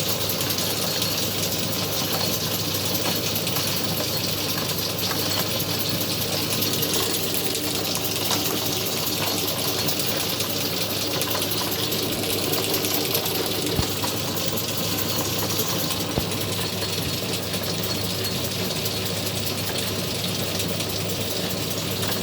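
Atlas 10-inch metal lathe running steadily, with a continuous even mechanical whir and no change in speed.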